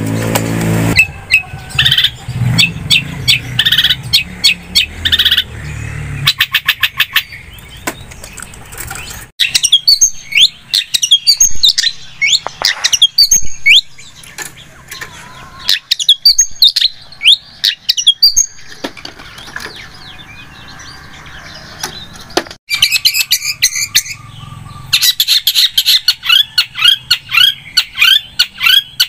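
Long-tailed shrike (cendet) singing hard: rapid runs of sharp chirps, trills and falling whistled notes mixed with harsh calls. The song breaks off abruptly twice, as if spliced, about nine seconds in and again near 23 seconds.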